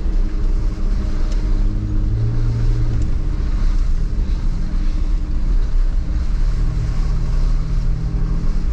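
Jeep Wrangler LJ's engine running steadily while it is driven slowly along a rough trail, with the engine note shifting up briefly about two seconds in.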